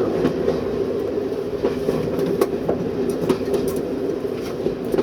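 Train running at speed, heard from inside the driving cab: a steady mechanical drone with scattered sharp clicks and knocks from the wheels and running gear.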